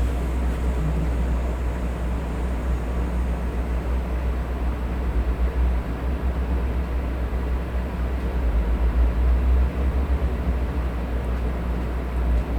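Electric fan running steadily, an even whooshing noise with a low rumble.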